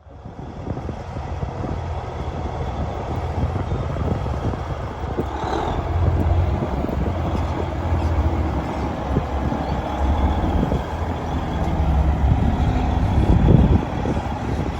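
Heavy diesel truck engine running, its low note shifting in pitch and growing loudest shortly before the end.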